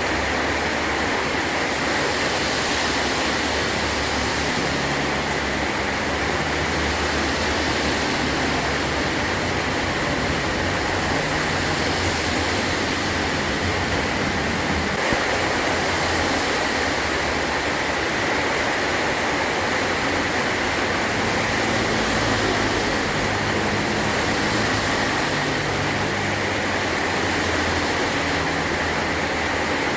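Heavy rain falling steadily on a metal (tin) roof, an even rushing hiss with no breaks.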